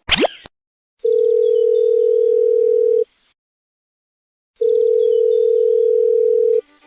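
Telephone calling tone: one steady mid-pitched beep held for about two seconds, a pause, then a second identical beep. A quick rising swoosh comes right at the start.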